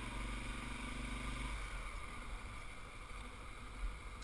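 Motorcycle engine running steadily under a low rumble of wind and road noise; its steady hum fades about a second and a half in, leaving mostly the rumble.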